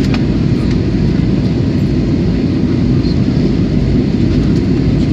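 Airliner's engines and rushing air heard as a steady low rumble from inside the cabin, holding an even level.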